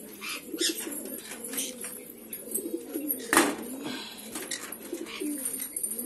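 Caged aviary birds calling: repeated low, wavering calls with short high chirps over them. A single sharp knock about three and a half seconds in stands out above the calls.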